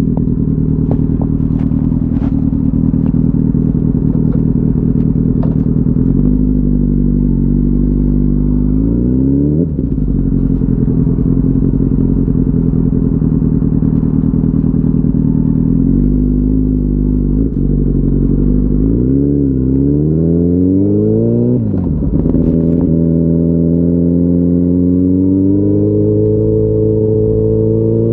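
2004 Yamaha R6's inline-four engine running under load, holding a steady note, then revving up and dropping sharply twice, about nine and twenty-one seconds in, as it shifts up. It climbs steadily in pitch again toward the end.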